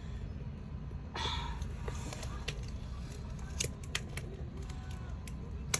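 Scissors cutting card: a brief rustle of the sheet about a second in, then several separate sharp snips.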